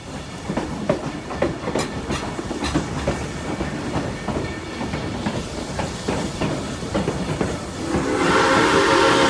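Narrow-gauge steam train rolling by with rumbling and irregular wheel clicks and clanks on the rail joints; about eight seconds in, the locomotive's steam whistle starts to blow, a loud chord-like tone held past the end.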